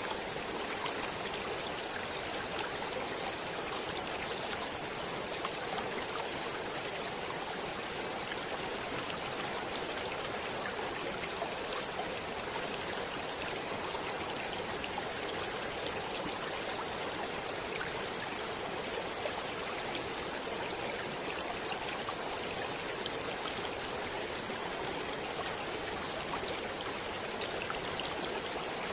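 Stream water flowing, a steady unbroken rush with small ticks of splashing water throughout.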